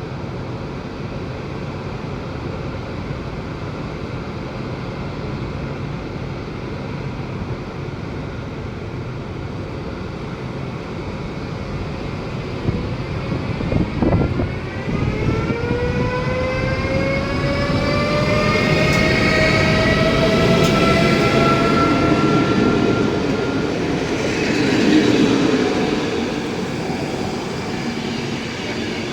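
Electric train pulling away, a steady rumble joined about halfway by a motor whine that climbs in pitch as it accelerates; the sound grows loudest a few seconds before the end.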